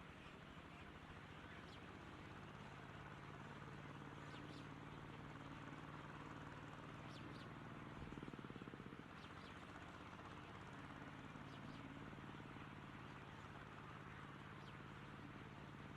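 Faint, sparse bird chirps, short high notes every few seconds, over a quiet steady low hum.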